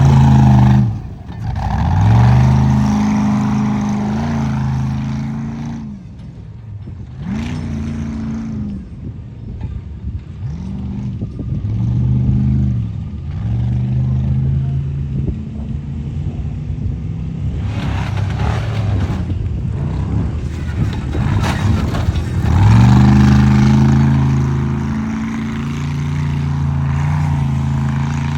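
Truck engine revving hard in repeated surges, its pitch climbing and dropping again and again with short lulls between, as it drives over a tuff truck obstacle course; the longest and loudest surge comes near the end.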